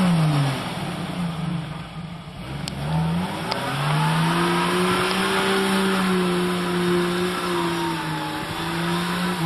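A vehicle engine revving: the pitch drops at the start, climbs again after a few seconds and holds high and steady, then cuts off suddenly at the end.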